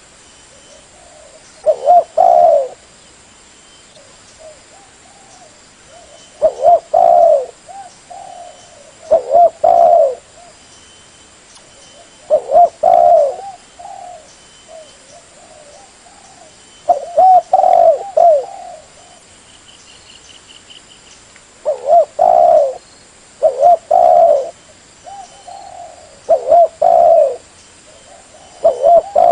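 Spotted dove cooing: loud phrases of several quick coos, each about a second long, repeated every two to five seconds, about nine times, with softer coos in between.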